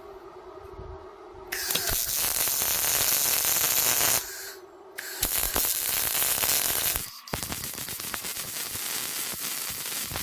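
Electric welding arc crackling and sizzling in three bursts, with short breaks between them.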